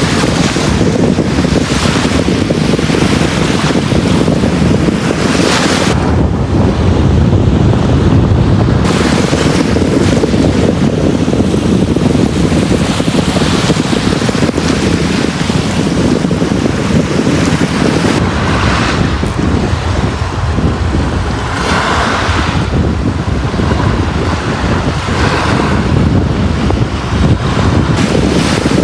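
Sea waves breaking and washing up a beach: a continuous loud rush with a deep rumble, swelling and easing as the waves come and go. Wind buffets the microphone.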